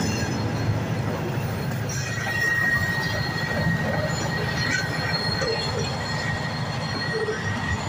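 Freight cars rolling past close by, their wheels rumbling steadily on the rails, with a thin, steady wheel squeal setting in about two seconds in.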